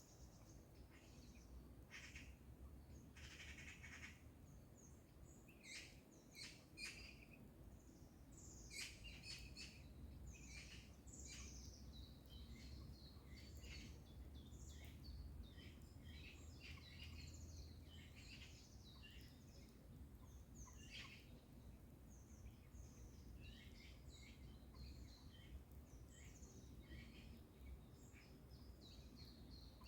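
Faint morning bird chorus: several birds chirping and singing in quick, high notes throughout, over a faint low rumble.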